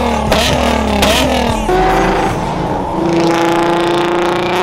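Car engine revving hard, its pitch rising and falling, then held at high, steady revs through the last couple of seconds.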